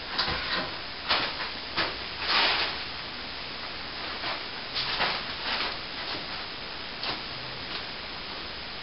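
Steel plastering trowel working wet plaster on a ceiling patch: a handful of short, irregular scraping strokes, the longest about half a second, over a steady background hiss.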